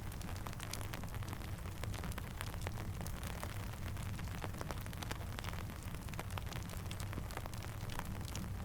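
Steady rain mixed with a crackling campfire: a continuous hiss and low rumble dotted with many small, irregular sharp pops and ticks.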